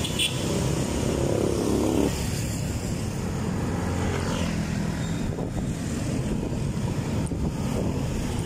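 Steady wind and road noise from a moving bike ride, with an engine note sounding through the first couple of seconds.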